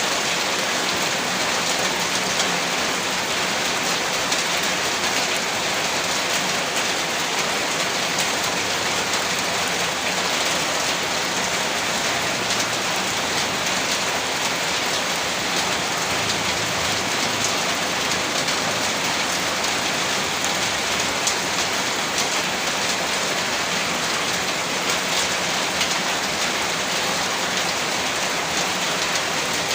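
Heavy rain falling steadily, a dense even hiss of drops striking surfaces with fine scattered pattering and no change in strength.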